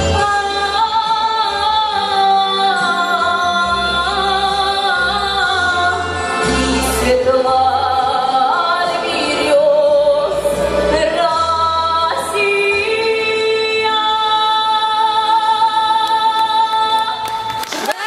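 A woman singing a slow song over an instrumental accompaniment, her voice sliding between long notes with vibrato. It closes on a long held note that stops near the end.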